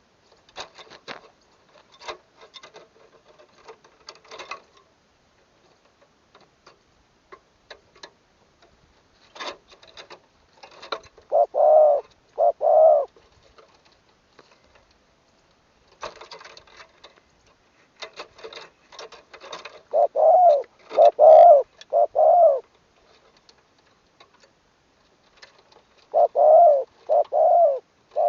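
Spotted dove cooing in three short phrases of a few low, even notes each, spaced several seconds apart. Faint scattered clicks and taps come between the phrases.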